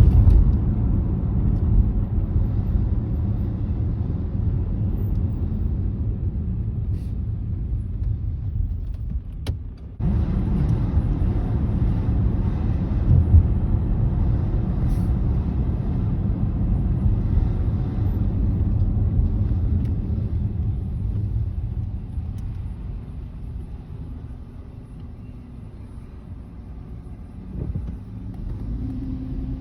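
Heavy emergency vehicles, a fire engine and an ambulance, driving by with a steady low engine rumble and road noise, and no siren; the sound cuts off abruptly about ten seconds in and eases off near the end.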